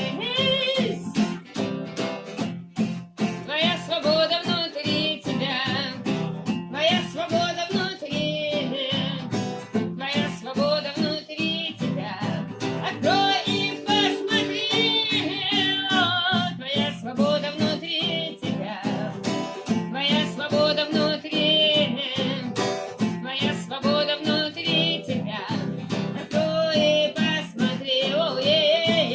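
Live acoustic guitar music, with a wavering melody line sung over it.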